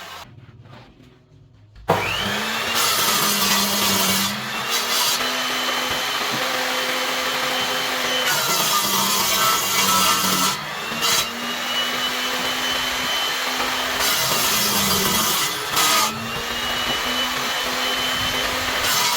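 An electric power tool working wood. It starts about two seconds in and then runs steadily, with short dips every few seconds where its whine sags and recovers as it works the wood.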